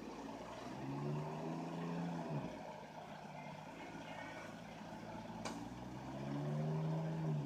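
Semi truck's engine revving up twice, each time held for a second or so before dropping back, as the truck, stuck in snow, spins its drive tires trying to pull free.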